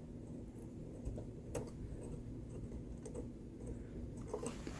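A few faint, sharp clicks of small parts being handled, over a low steady hum.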